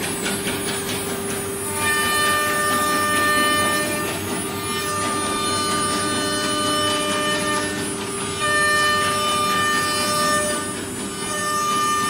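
CNC router running with a steady high machine whine. Twice, about two seconds in and again near eight and a half seconds, a louder whining tone rises over it and holds for two to three seconds.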